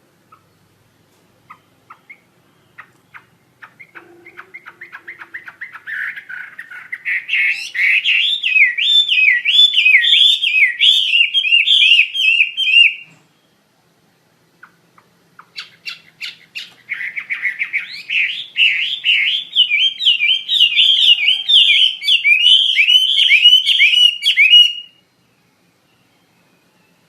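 Chinese hwamei (wambi) in full song: two bouts of about nine seconds each of rapid, repeated whistled notes. Each bout starts with scattered chips that quicken and swell into loud, fast phrases, then cuts off abruptly.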